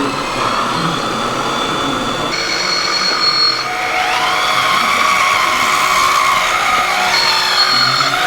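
Radio-controlled model construction machines working: several electric motor whines over a steady mechanical hiss, their pitch gliding up and down about halfway through.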